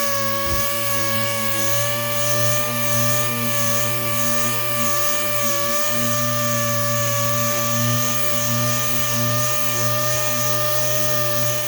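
Dual-action orbital sander with 80-grit paper running at a steady speed against a car hood, sanding off oxidized, faded paint.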